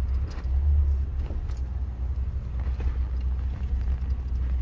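Pickup truck driving slowly along a muddy dirt track: a steady low engine and road rumble, with scattered light knocks and rattles.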